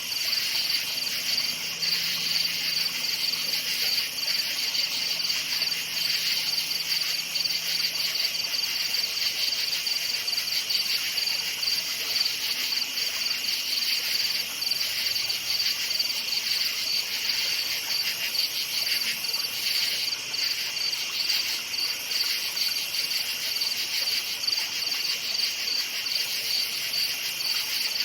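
A chorus of crickets chirping continuously in a high, steady trill with a fast, even pulse.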